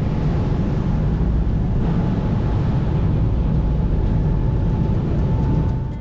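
Fast passenger ferry under way, heard on board: a steady, loud low engine drone with a rushing hiss of wind and water, fading out near the end.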